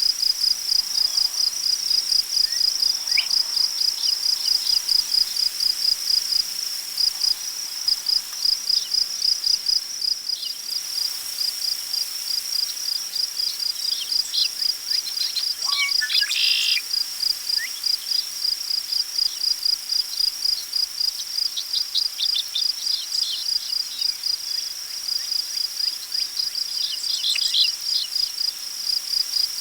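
Crickets chirping in a fast, even pulse throughout, with scattered short bird calls, busier a little past halfway and near the end. A faint hiss of wind in tall prairie grass lies underneath.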